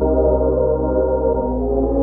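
Background music: a sustained ambient drone of held low tones with a gong-like ring.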